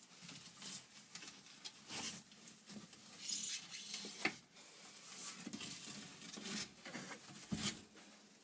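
Savannah monitor biting and chewing a tilapia: irregular wet clicks, crunches and smacks of jaws on fish.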